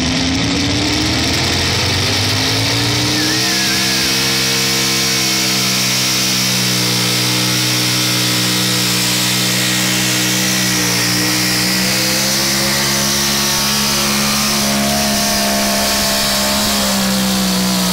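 A competition pulling vehicle's engine revving up over the first two seconds, then held loud and steady at high revs.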